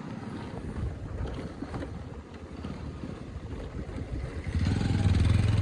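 Motorcycle running on the move, with wind rushing over the microphone. About four and a half seconds in, the engine gets louder with a steady low hum.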